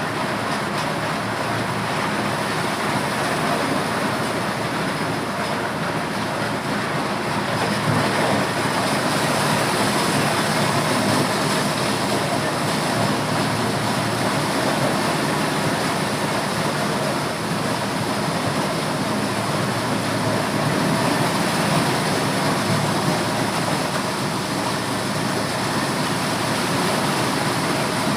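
Motorised corn sheller running continuously: a loud, steady mechanical noise of the machine at work.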